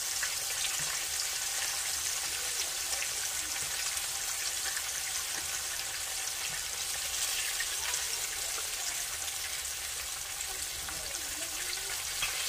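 Pork neck bones frying in hot oil in a skillet: a steady sizzle dotted with many small crackles and pops.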